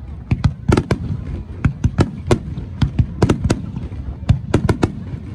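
Fireworks display: aerial shells bursting in quick, irregular succession, about four sharp bangs a second over a steady low din.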